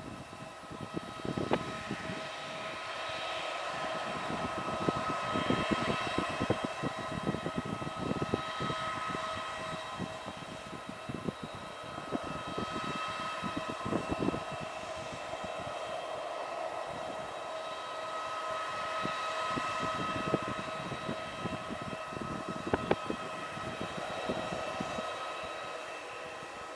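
Aircraft engines running with a steady high whine at constant pitch, mixed with irregular low crackling and rumbling that swells and fades.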